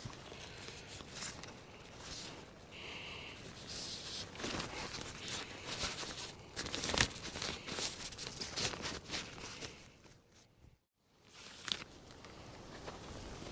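Rustling and crinkling of a tarp being handled, with irregular footsteps on the ground. The sound cuts out briefly about ten seconds in.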